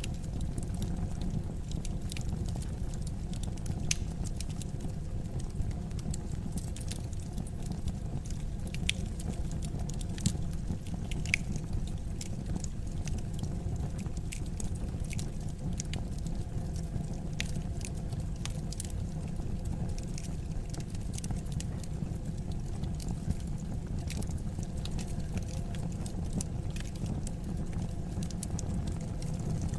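Wood fire crackling in a fireplace: a steady low rumble of burning with irregular sharp pops and snaps scattered throughout, a few louder ones now and then.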